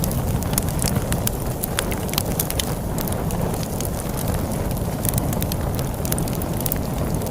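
Wood fire crackling, with frequent sharp pops and snaps, over a steady low rushing of storm wind.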